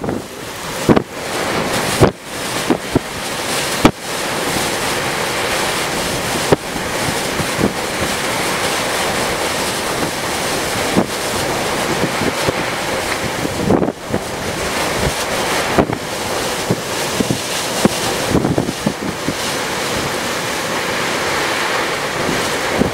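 Storm wind buffeting the microphone over a steady rush of water and surf. The sound breaks off abruptly a few times where clips are cut together.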